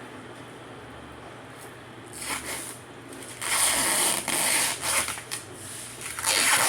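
Roll of thin sheet aluminum being unwrapped and unrolled by hand: rustling, scraping noise that starts about two seconds in and is loudest in the second half.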